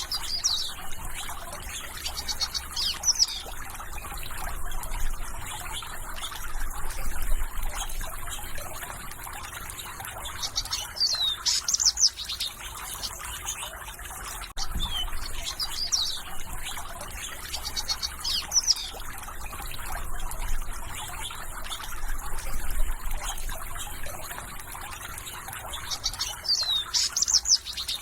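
Songbirds singing in short, repeated whistled and sweeping phrases over a steady background hiss of natural ambience. The same stretch of song seems to come round again about every fifteen seconds.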